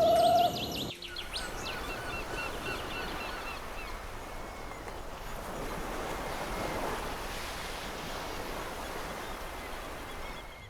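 A bird giving a string of short, repeated chirps, about three a second, that fade after a few seconds, over a steady hiss of outdoor background noise.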